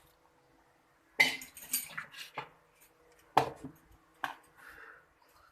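Kitchen utensils being handled: a run of sharp clinks and knocks starting about a second in, then two more single knocks, with quiet between.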